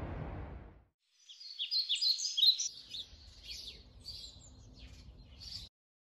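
Small birds chirping and twittering in quick high calls, busiest for the first second or two, then thinner, stopping abruptly near the end. Before them, a steady low noise fades out in the first second.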